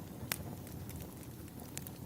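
Wood fire burning, a steady low rumble with sharp crackling pops of firewood, the loudest pop about a third of a second in and another near the end.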